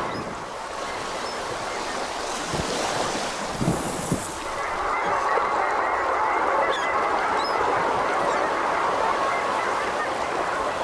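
A large flock of long-tailed ducks (oldsquaw) calling all at once, a steady chorus of honking calls over the wash of water.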